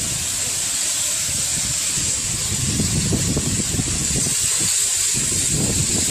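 Steady rushing noise: a bright, even hiss over an uneven low rumble that flutters throughout.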